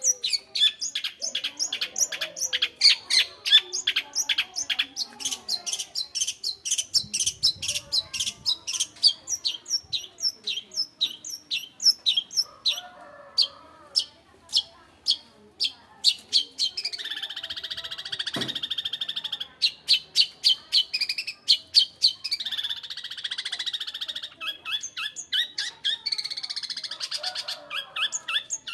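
Long-tailed shrike singing continuously: quick strings of sharp repeated chirps, about three to four a second, broken in the second half by stretches of dense scratchy chattering song.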